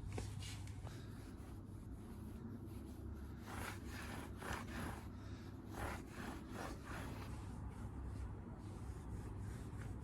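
Old cotton t-shirt used as a rag, rubbing Auto Sol polish off the stainless steel lip of a split-rim wheel, with a run of short wiping strokes through the middle over a steady low hum.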